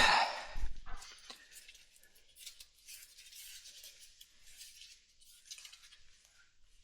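Hand tools and metal parts clinking and scraping while a motorcycle is dismantled by hand. A loud scrape opens it, followed by a few sharp clicks and then faint rattling and handling noise.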